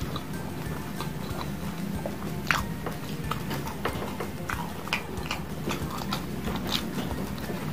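Close-up mouth sounds of a person eating rice with sausages and meatballs in chili sauce: chewing with wet smacks and clicks scattered through, the sharpest about two and a half seconds in.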